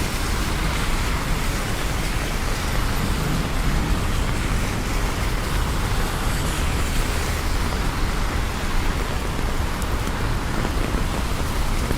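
Steady rain falling on city streets, with a constant low rumble of downtown traffic underneath.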